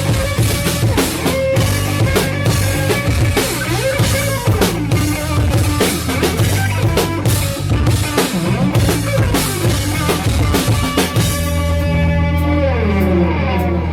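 Instrumental post-rock band playing live, with a full drum kit over guitars and bass. About eleven seconds in the drums stop and a held chord rings on, with pitched lines sliding downward.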